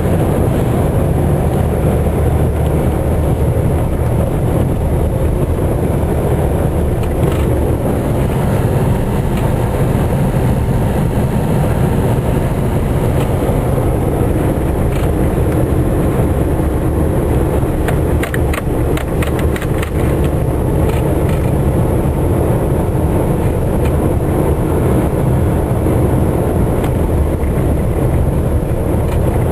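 Steady car engine and road rumble heard from inside a moving car, with a short run of rapid clicks about eighteen seconds in.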